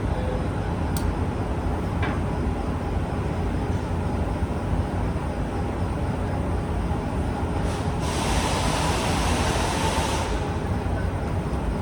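Steady low rumble of workshop machinery, with a burst of air hiss lasting about two and a half seconds near the end.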